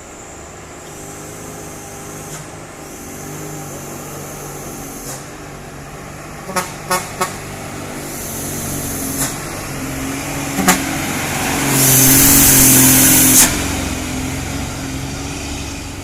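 Sugarcane truck's diesel engine pulling up a steep climb, growing louder as it approaches, with three short horn toots about seven seconds in and a loud blast lasting about a second and a half near the twelve-second mark.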